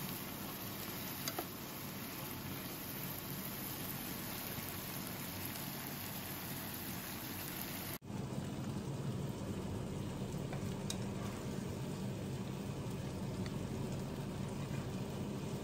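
Mushrooms frying in a pan: a steady sizzling hiss with a few light clicks, changing abruptly about eight seconds in at a cut.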